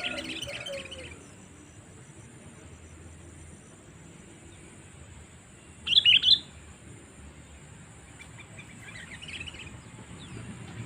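Sooty-headed bulbul (kutilang) calls played as a lure call: a chattering bout at the start, a loud burst of three quick notes about six seconds in, and softer chatter near the end.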